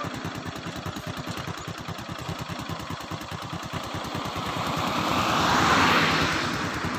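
An engine idling close by with a steady rapid pulse, while a vehicle passes on the road, growing louder to a peak about six seconds in and then fading.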